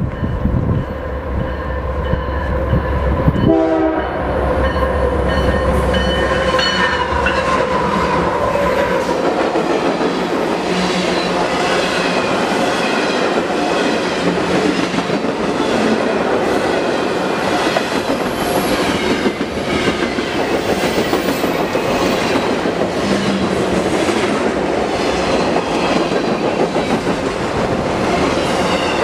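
Canadian Pacific freight train passing close by. The locomotive horn sounds a steady chord for the first several seconds while the engines rumble past. Then the tank cars and autoracks roll by with continuous wheel clatter and rattling.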